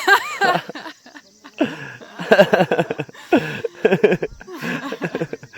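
People laughing in several bursts, with a high gliding laugh at the start.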